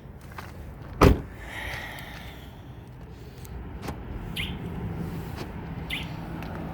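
A car door shuts with a single thump about a second in. After it the 2008 Suzuki Forenza's 2.0-litre four-cylinder engine idles steadily during warm-up after a cold start, with a couple of faint clicks.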